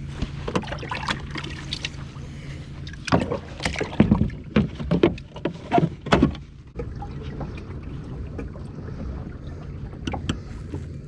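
Sounds of fishing from a kayak: a steady low hum under scattered clicks and knocks. About three to six seconds in comes a louder run of knocks and rustling.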